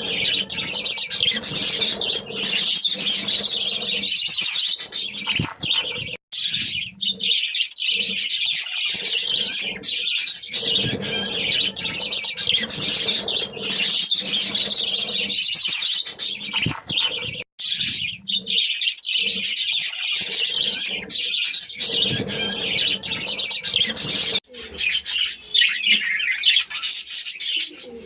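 Small pet parrots chattering and chirping rapidly and almost without pause, with short breaks about six seconds in, about seventeen seconds in and near the end.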